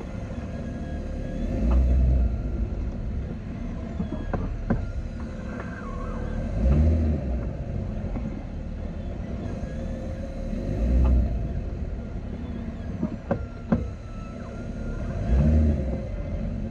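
Jeep Wrangler JL running, its low rumble swelling every four or five seconds, with a few sharp clicks from the front end, including a quick run of three near the end. This is the clicking the owner hears when turning the wheels or creeping forward or in reverse, a fault not yet diagnosed.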